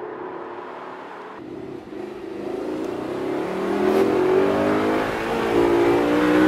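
2008 Audi R8's mid-mounted 4.2-litre V8 accelerating hard, its note climbing steadily in pitch and growing louder over the last few seconds.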